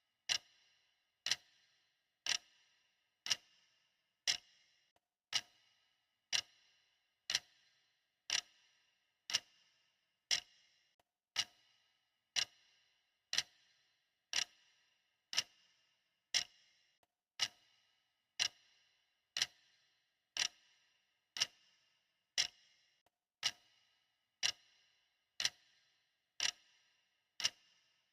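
Clock ticking at an even one tick per second. Each tick is short and sharp with a brief, bright ring.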